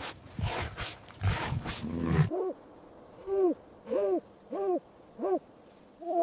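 A rough, pulsing animal roar for about the first two seconds, typical of a big cat. It gives way to an owl hooting five times, each hoot rising and falling in pitch.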